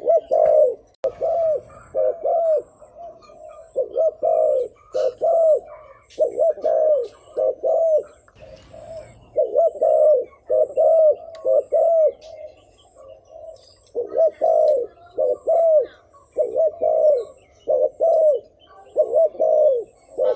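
Spotted dove giving rapid 'thúc gù' cooing: a long run of short, low coos, about two a second, with a brief pause about two-thirds through. This is the excited territorial cooing that keepers play to lure wild doves.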